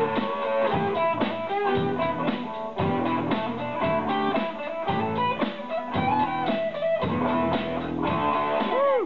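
A rock band playing live, with the guitar to the fore and a bent guitar note near the end.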